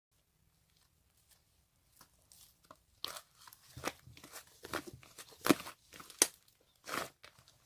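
Irregular handling noises: short rustles, crinkles and sharp taps that start about two to three seconds in, like something crinkly being handled or torn.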